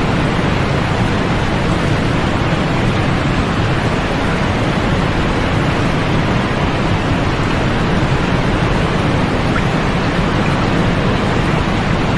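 Steady white noise for sleep: an even, unbroken hiss with its highs rolled off, so it sounds softer and darker than pure white noise.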